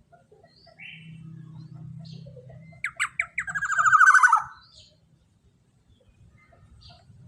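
Black-naped oriole (kepodang emas) singing: a loud, rapid trill of repeated notes, falling slightly in pitch, about three seconds in and lasting about a second and a half. Scattered short chirps come before and after it.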